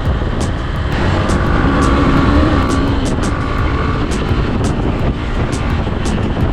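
Hero XPulse motorcycle's single-cylinder engine running at road speed, under a heavy, steady rumble of wind on the microphone.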